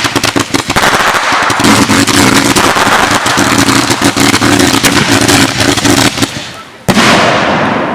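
Fireworks going off: a dense, rapid run of crackling pops for about six seconds, then a single loud bang about seven seconds in that fades away.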